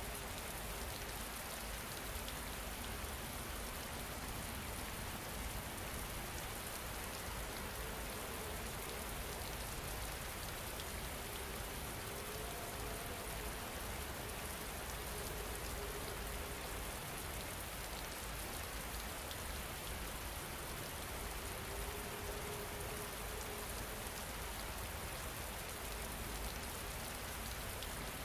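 Steady rain falling, an even hiss of drops on a surface, with a few faint held tones sounding briefly underneath.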